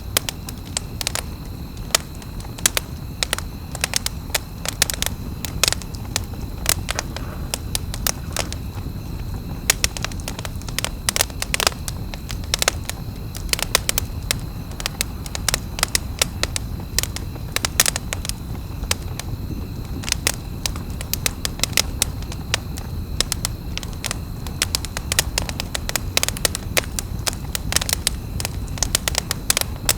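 Wood campfire crackling, with frequent irregular sharp pops and snaps over a low steady rumble of the burning fire.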